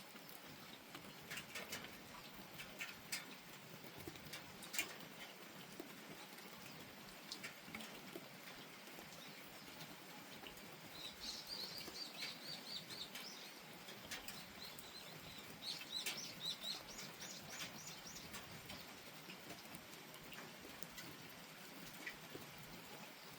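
Light steady rain with occasional sharp drips. Twice in the middle a small bird sings a quick run of high chirping notes.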